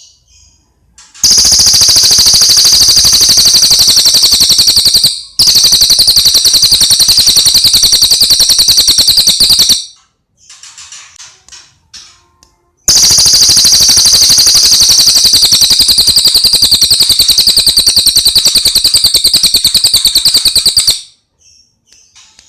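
Recorded songbird song: two long, loud, very fast high-pitched trills of about eight seconds each, the first broken briefly partway through, with a few softer short chirps between them.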